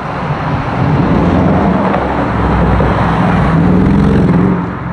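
A motor vehicle's engine passes close by in street traffic. It grows louder about a second in and falls away near the end.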